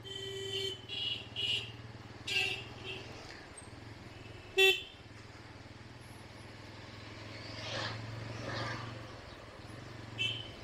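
Vehicle horns honking in traffic: several short toots in the first two and a half seconds, one loud sharp blast about four and a half seconds in, and another short toot near the end, over the steady low hum of a motorcycle engine. A vehicle passes with a rush about eight seconds in.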